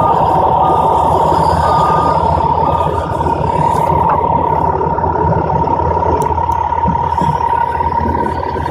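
A machine running with a steady high whine over a low hum, with short beeps about once a second during the first three seconds.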